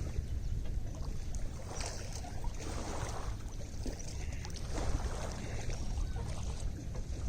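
Small lake waves lapping and splashing, a wash every second or two, over a steady low rumble.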